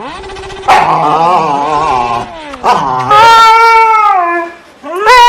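Dog howling and whining in several drawn-out, wavering calls; the longest, about a second and a half, sinks in pitch at its end, and another call rises near the end.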